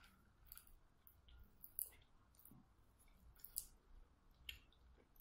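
Faint, irregular wet clicks of eating a sticky glutinous-rice pork zongzi, heard up close: mouth clicks from chewing the sticky rice, with the loudest two clicks near two seconds in and a little past three and a half seconds in.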